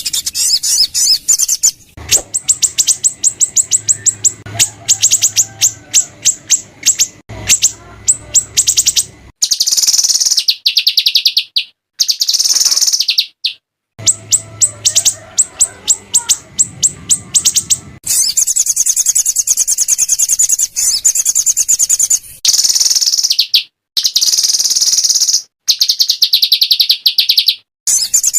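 Small songbirds giving harsh, rapid trilling 'shots': loud volleys of fast repeated high notes. The song is spliced into a bird-training track ('masteran'), so it breaks off abruptly several times with short gaps of silence.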